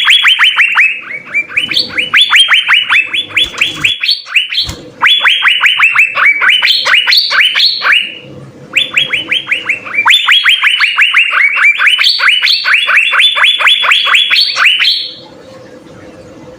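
Asian fairy-bluebird (cucak biru) singing loud phrases of rapid, downward-sliding whistled notes, three long runs with short breaks between them, the song stopping near the end.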